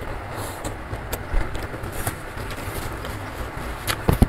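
Close-miked chewing of a mouthful of food, with wet mouth clicks and smacks, the loudest near the end, over a steady rumble of heavy rain.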